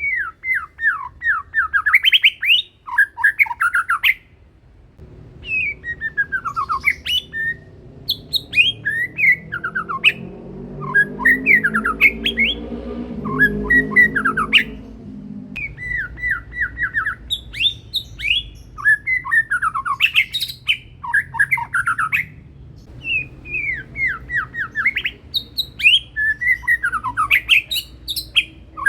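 White-rumped shama (murai batu, Medan type) singing prolifically: loud phrases of rapid whistled notes, many sliding down in pitch, following one another with only brief pauses.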